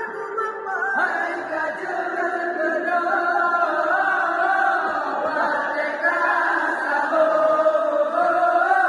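Voices chanting a melodic wake-up call for sahur, the pre-dawn Ramadan meal, in long gliding notes without a break.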